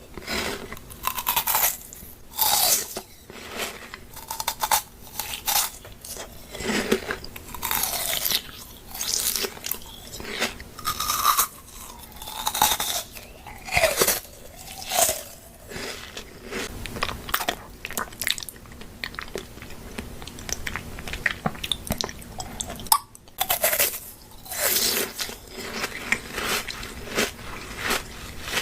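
A person biting and chewing crunchy food close to the microphone, with irregular crunches all the way through.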